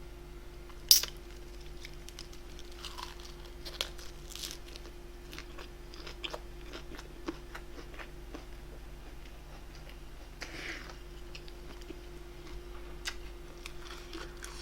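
A person chewing food close to the microphone: soft crunches and mouth clicks, with one sharp click about a second in, over a faint steady hum.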